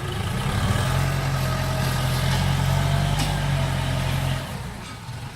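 Six-wheel truck's diesel engine running loud and steady at an even pitch, then falling away about four and a half seconds in.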